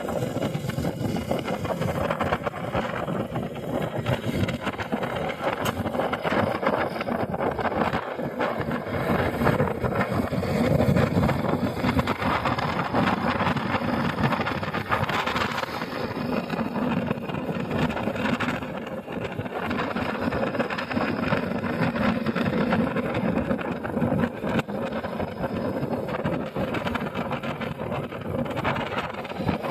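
Motorcycle engine running under way, with wind noise on the microphone.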